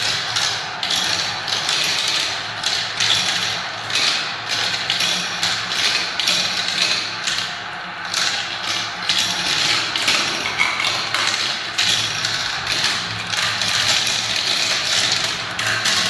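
Many marbles rolling and clattering down a spiral marble-run track: a dense, continuous stream of small clicks and taps.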